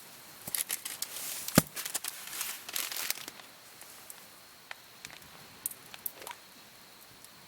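Crinkly wrapping being handled and rustled, with a sharp click about one and a half seconds in, then a few faint ticks.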